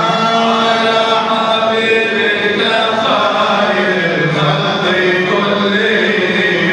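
Male voice chanting an Islamic devotional inshad (nasheed) for the Mawlid, in long held notes that slide slowly from pitch to pitch.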